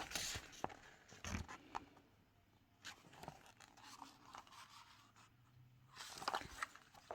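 Packaging and paper being handled: soft rustling and scraping with a few light taps, busier near the start and again near the end.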